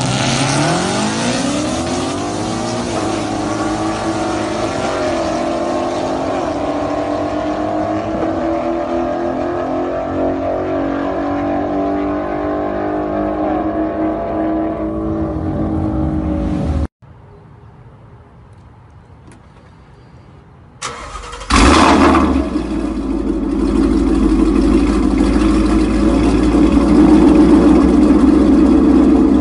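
Two Ford Mustang GTs' 5.0 L V8s at full throttle off a drag-race launch, rising in pitch again and again through the gear changes. After a sudden cut to a quiet stretch, a Mustang V8 starts with a sharp burst and settles into a loud, steady idle.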